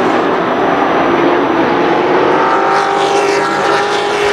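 A pack of racing trucks' engines running hard around the oval, several engine notes layered together, with further engine tones rising about three seconds in.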